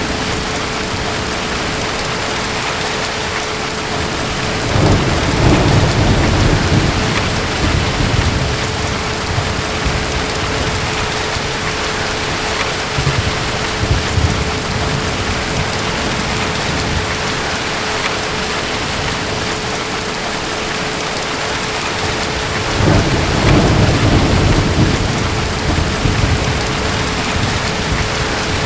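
Steady rain of a thunderstorm, with two low rolls of distant thunder, one about five seconds in and another about five seconds before the end.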